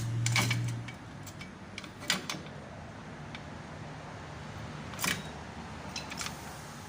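Several sharp metallic clicks and clinks, about five spread out, from parts and tools being handled during rear wheel and brake disassembly. A steady low hum stops about a second in.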